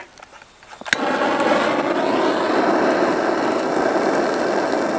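A sharp click about a second in, then a steady hissing rush: a lighter being lit to ignite the fire starter in a titanium wood-burning stove.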